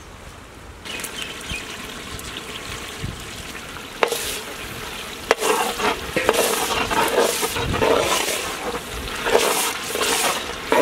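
An onion-tomato masala sizzling in hot oil in a large pot as ginger garlic paste goes in, then a metal spatula stirring and scraping through it. Two sharp knocks come about four and five seconds in, and the stirring gets louder over the second half.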